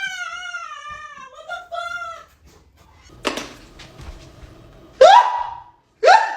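A long, high, wavering whine that fades out about two seconds in. After a pause there is a sharp cry, then short yelps that rise quickly in pitch, repeated about once a second near the end.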